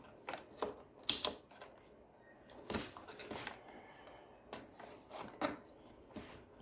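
Irregular clicks, taps and short scrapes of small plastic and metal parts and tools being handled while working on a disassembled vacuum cleaner, the loudest a quick cluster about a second in.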